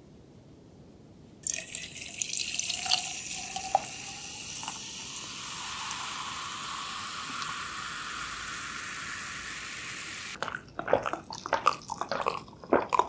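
Carbonated grape soda poured from a can into a glass mug of ice, fizzing steadily for about nine seconds with a few small clinks. The pour stops abruptly and is followed by a quick run of swallowing gulps and clicks as the soda is drunk.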